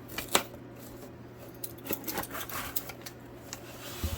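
Knife slicing the tape on a cardboard box and the box being handled: scattered sharp clicks and short scraping sounds, the loudest a sharp click about a third of a second in.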